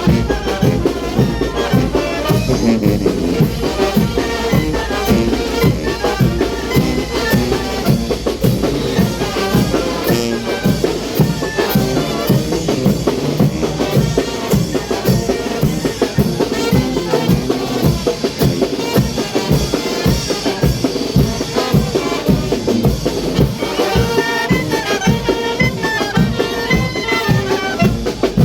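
A Mexican brass band (banda de viento) playing chinelo dance music: brass melody over a steady, driving drum beat that runs without a break.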